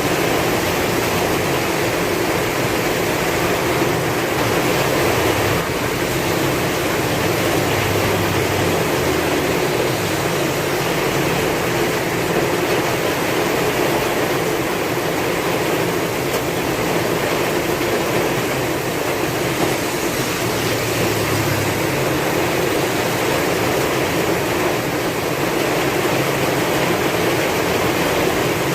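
Heavy rain falling steadily with strong wind, an even unbroken wash of noise with no thunder claps.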